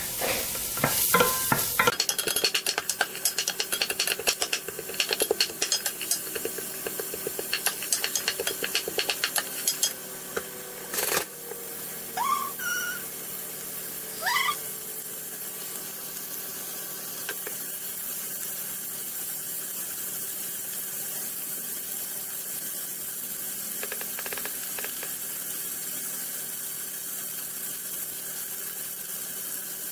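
Diced onions and garlic sautéing in olive oil in a stainless steel pot, crackling and popping busily for the first ten seconds or so, then settling into a steady soft sizzle. There is a sharp click about eleven seconds in and two short rising squeaks shortly after.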